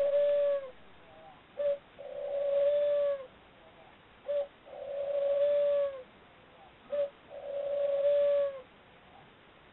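Pet lovebird cooing, heard through a tape-recorder recording: a short note, then a long, level coo that drops at its end, repeated about three times at even spacing.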